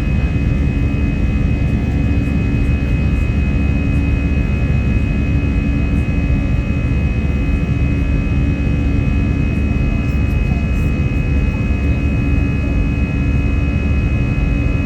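Jet airliner's engines running steadily: a loud, even low rumble with a steady high whine over it.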